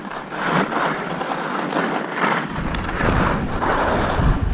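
Skis scraping and hissing over icy snow in repeated swells. Wind rumbles on the microphone from a little over halfway in.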